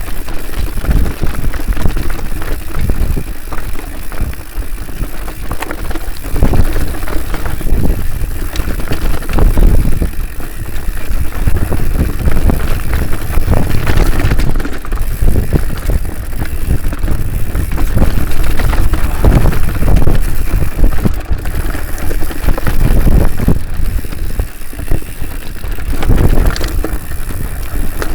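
Mountain bike ridden over a rough dirt trail: steady tyre rumble with frequent knocks and rattles over bumps, and wind buffeting the microphone.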